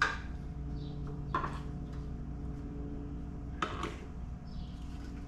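Three light knocks and clinks as strut parts are handled and fitted, one at the start, one about a second and a half in and one near the end, over a steady low hum.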